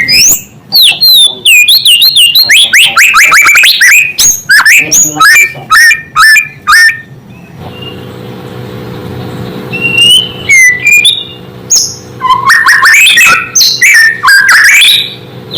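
White-rumped shama (murai batu) singing loudly: a fast run of whistled notes, many sliding down in pitch, then a pause of about two seconds and further whistled phrases. A steady low hum lies underneath.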